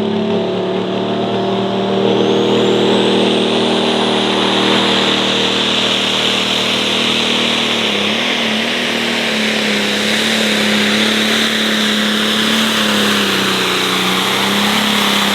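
John Deere 4430 light pro stock pulling tractor's diesel engine running hard at high revs under load as it pulls the sled. The pitch holds steady, dips and wavers briefly about eight seconds in, then recovers.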